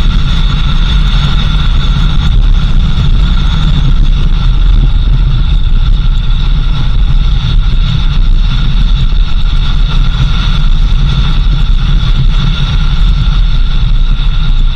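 Vehicle driving: a steady, loud engine and road rumble with two constant high whines over it, unbroken throughout.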